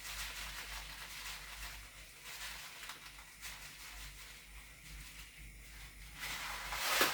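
Dry rice being scooped and measured out: faint scattered clicks and rustles, then a louder rushing pour of grains about six seconds in, lasting under a second.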